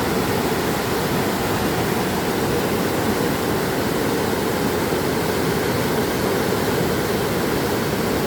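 A large waterfall or heavy flow of water rushing, a steady, unbroken roar.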